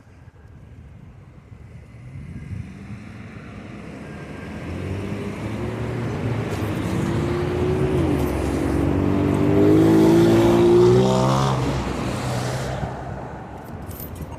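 A car passing by: its engine and tyre noise build over several seconds, peak about ten to eleven seconds in, and the engine's pitch drops as it goes past before fading away.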